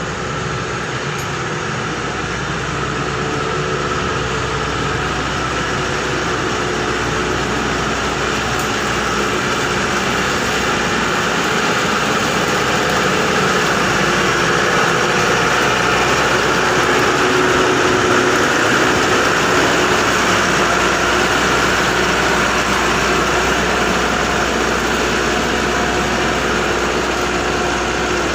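Combine harvester's diesel engine running steadily, growing a little louder toward the middle and easing off slightly near the end.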